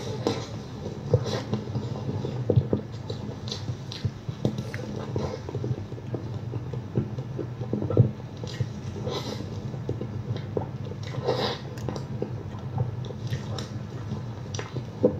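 Close-up chewing and mouth sounds of someone eating: irregular wet smacks and clicks, with a steady low hum underneath.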